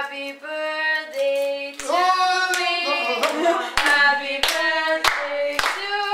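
Singing with hands clapping along in a steady beat, about one and a half claps a second, the claps starting about two seconds in.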